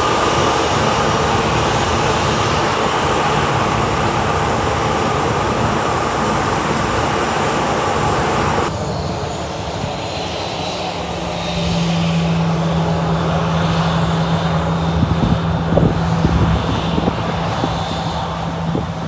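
Jet engines of a Boeing 737-8 (CFM LEAP-1B turbofans) running loud and steady. About nine seconds in the sound changes abruptly to a quieter, duller rush, and a steady low hum comes in a couple of seconds later.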